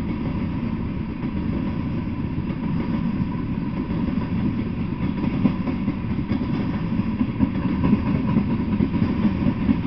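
Freight train cars rolling past, a steady low rumble of wheels on rail that grows a little louder and rougher toward the end.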